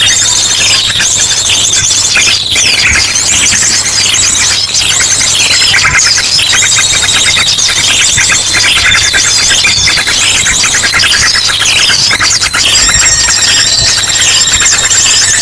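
Bird-lure recording: a dense, noisy chorus of many small birds chirping and trilling over one another, mixed with long held whistled calls of an ashy drongo. A steady low hum runs underneath.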